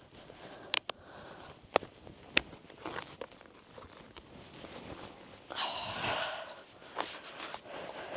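Ice skates on snow-covered pond ice: a few sharp clicks of the blades in the first couple of seconds, then scuffing strides and a longer scrape about five and a half seconds in.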